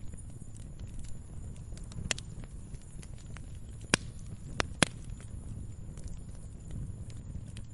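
Log fire burning with a low steady rumble and scattered sharp crackles and pops, the loudest three close together about four to five seconds in.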